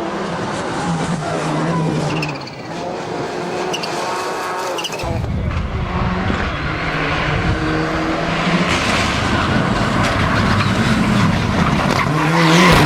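Racing car engine revving up and down through gear changes. A heavy rush of noise joins the engine about five seconds in, and the sound is loudest just before the end.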